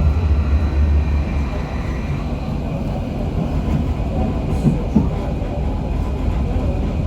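KTM-23 (71-623-04.01) tram running along the track, heard from inside the car: a steady rumble whose low drone eases off about a second and a half in, with two short knocks close together near five seconds in.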